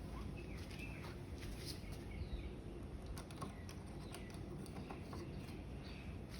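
Faint scattered light clicks and taps, with a few short bird chirps in the background.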